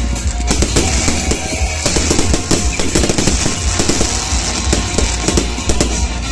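Fireworks going off in rapid, irregular cracks and bangs, over loud music.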